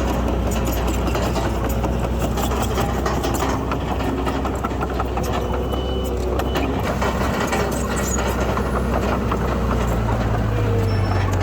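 Heavy earthmoving machinery's diesel engine running steadily, with frequent rattling clicks over it; the engine note steps up in pitch about ten seconds in.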